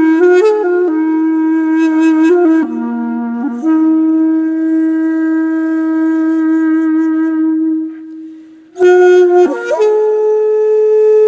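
Background music: a solo wind instrument playing slow, long held notes with pitch bends. One long note fades away, and after a short gap the line comes back with a downward swoop and settles on a higher held note.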